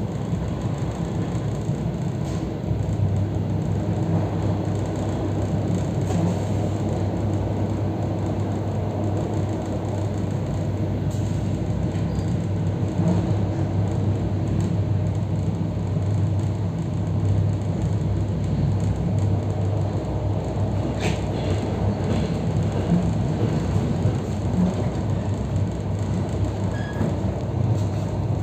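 EP3D electric multiple unit running at speed, heard from inside the passenger car: a steady rumble of wheels on track with a constant low hum, and a single sharp click about 21 seconds in.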